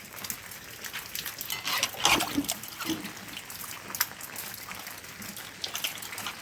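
Water trickling and splashing, with many scattered drips and sharp little clicks and a louder splash about two seconds in.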